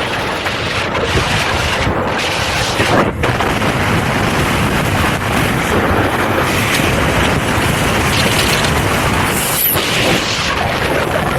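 Wind buffeting the microphone at riding speed: a loud, steady rush of wind noise.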